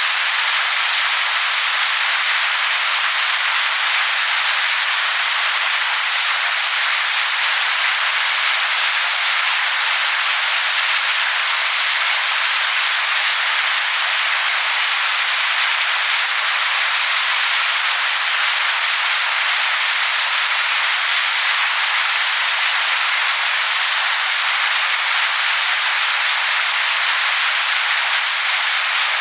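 Waterfall splashing onto rocks: a steady, dense hiss of falling water, bright and with almost no low rumble.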